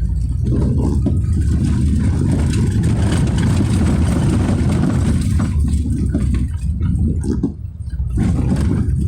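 A car driving on a wet road: a steady low rumble of engine and tyres, with a hissing rush of water that rises about a second in and fades out around five seconds in.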